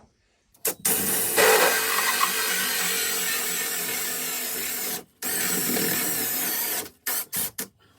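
Power drill boring a hole down through the truck's floor for a sink drain pipe: a long run under load, a brief stop, another run, then a few short trigger blips near the end.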